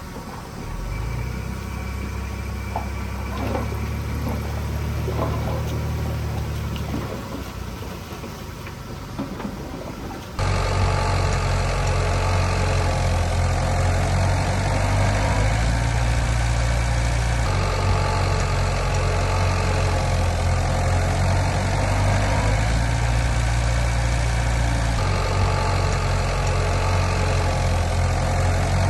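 Heavy diesel engine of earthmoving machinery running steadily, with a few light knocks in the first part. About a third of the way in the sound cuts suddenly to a louder engine drone whose pitch shifts twice.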